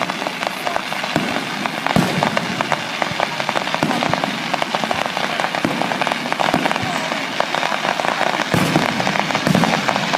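Fireworks crackling: a dense, continuous rapid popping, with a few louder bangs about two seconds in and near the end.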